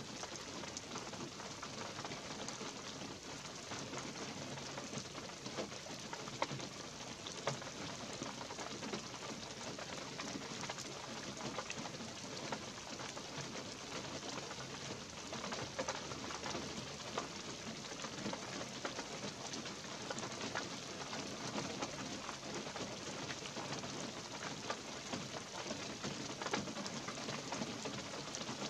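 Light rain falling steadily on a pine forest, a dense, even patter of fine drops on pine boughs and needle litter.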